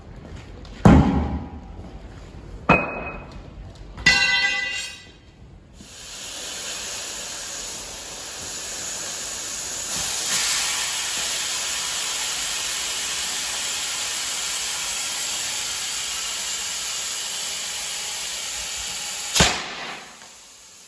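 Three sharp metallic knocks, the third ringing briefly. Then a steady hiss of compressed air for about thirteen seconds, cut off with a click.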